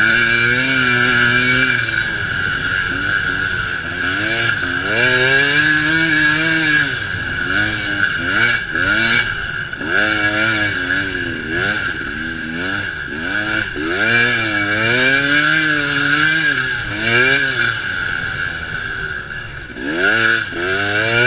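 KTM EXC 250 enduro motorcycle engine heard from on board, revving up and falling back again and again as it is raced hard along a sand track.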